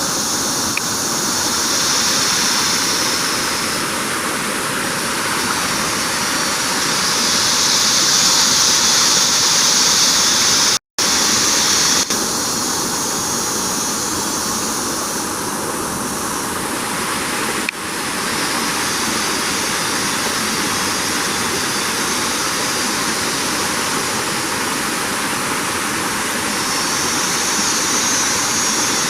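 A loud, high insect chorus buzzing in the forest, swelling and fading several times over a steady hiss. The sound cuts out completely for a moment about eleven seconds in.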